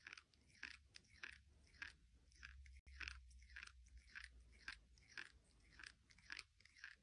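Faint, irregular crunching like chewing, about two short crunches a second.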